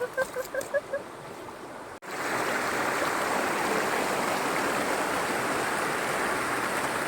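A quick run of about six short pitched calls, then an abrupt cut to the steady rushing of a stream.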